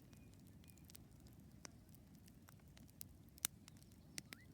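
Campfire wood crackling: scattered, irregular sharp pops over a low, faint background, with one louder pop about three and a half seconds in.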